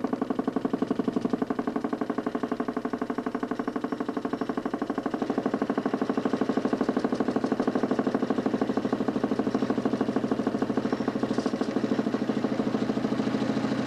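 DC motor spinning a 40cm plywood Nipkow disc of a homemade mechanical television, a steady whirring hum with a fast, even pulse. About five seconds in the sound shifts slightly and grows a little louder.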